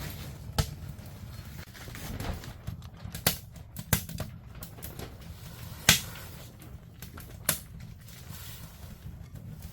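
Wood fire crackling, with five or six sharp irregular pops over a low steady rumble.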